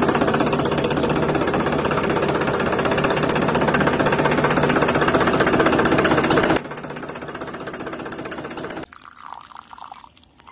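Small electric motor of a toy tractor running with a steady buzzing hum, cutting off suddenly about two-thirds of the way in and giving way to a quieter hum. Near the end, water trickles from a small tank onto sand.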